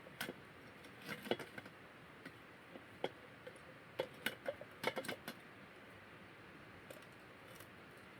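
Light clicks and knocks, about a dozen scattered over the first five seconds, then only a faint steady background.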